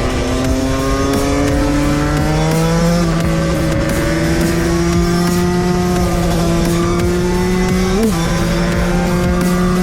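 Two-stroke motorcycle engine running steadily under riding load, its pitch slowly climbing, with a step up about three seconds in and a brief rise and fall of revs about eight seconds in.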